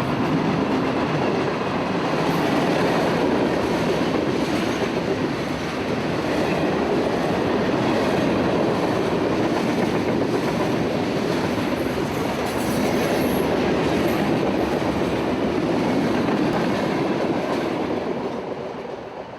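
CSX freight train rolling past, a steady rumble of wheels on the rails that dies away near the end.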